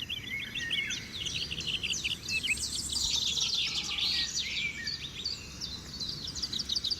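Several songbirds chirping and trilling in dense, overlapping short calls over a faint low background rumble.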